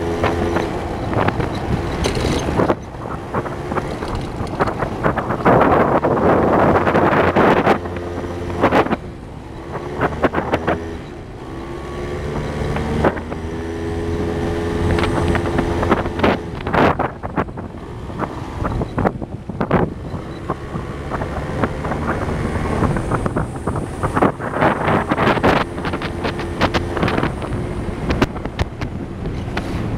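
Small motorbike engine running under way, its pitch rising and falling with the throttle, with wind rushing over the microphone.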